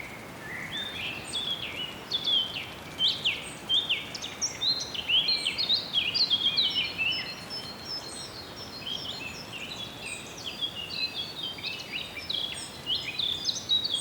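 Many songbirds chirping and singing at once in a wetland forest in early spring, short overlapping calls and trills thickest through the middle, over a steady background hiss.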